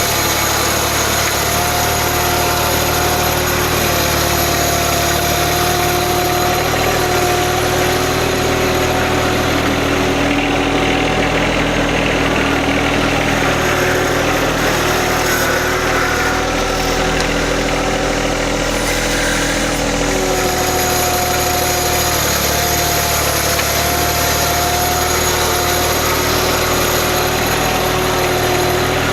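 John Deere 1025R sub-compact tractor's three-cylinder diesel engine running steadily, its pitch shifting slightly up and down a few times as the load changes.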